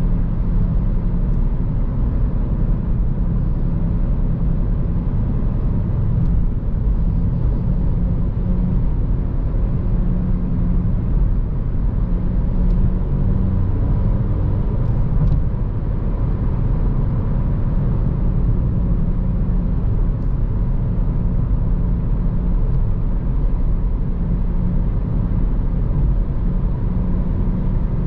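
A 2014 Honda Civic Si's 2.4-litre four-cylinder engine and road noise while driving: a steady low drone whose engine note shifts slightly in pitch.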